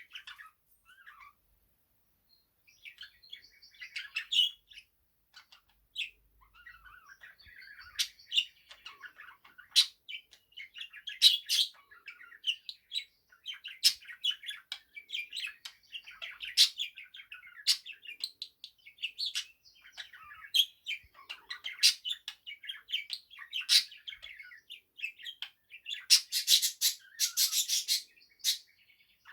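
Budgerigar singing: a long run of warbling chatter, broken by frequent sharp chirps, with a short pause near the start and a denser burst of loud chirps near the end.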